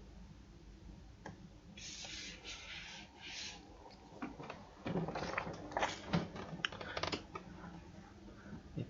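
Computer keyboard typing: a run of quick, irregular key clicks in the second half, after a brief hissing sound.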